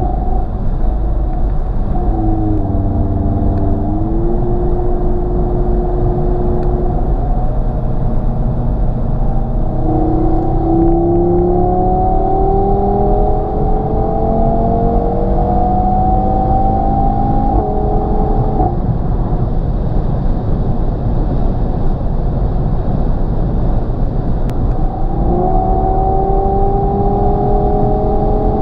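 Audi TT RS's 2.5-litre turbocharged five-cylinder engine through its open-valve sport exhaust, heard from inside the cabin over steady road rumble. The engine note rises steadily under acceleration from about a third of the way in, drops suddenly at an upshift, then climbs again near the end.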